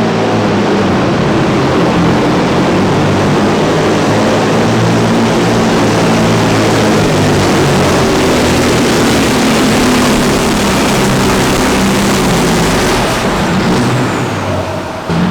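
Heavy diesel truck engine running hard at full throttle under load during a truck pull: a loud, steady drone that eases off about thirteen seconds in.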